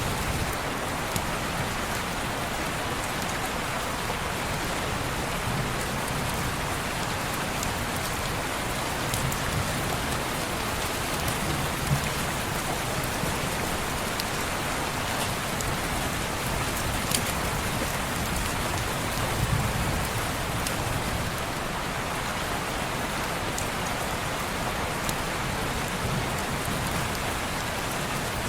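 Steady rain falling on window glass, an even hiss with a few sharp ticks scattered through.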